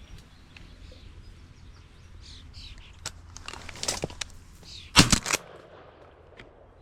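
Small birds chirping, then a quick flurry of wingbeats about five seconds in, three or four sharp flaps close together, as a bird flushes and flies off.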